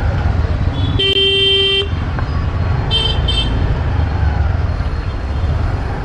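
Road traffic heard from a moving motorbike: a steady low rumble of engine and road noise throughout. About a second in, a vehicle horn sounds for nearly a second. Around three seconds, two short, higher-pitched horn beeps follow.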